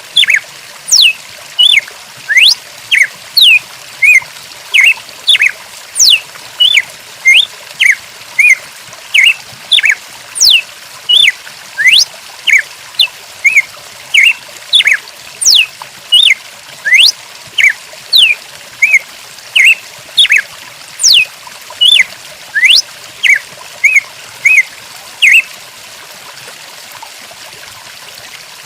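Short high-pitched chirps or squeaks repeating about once a second, some gliding steeply down from very high, over a steady hiss like trickling water; the chirps stop a few seconds before the end.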